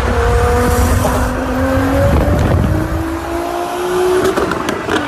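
Performance car engine accelerating hard, its pitch climbing in steps with gear changes, over heavy road and wind noise. A few sharp cracks come near the end.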